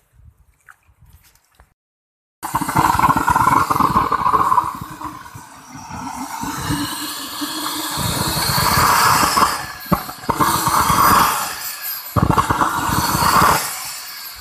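Model turbojet engine running with a loud jet rush that starts abruptly about two seconds in. It surges and eases through the rest, with a couple of brief dips, as the throttle is varied.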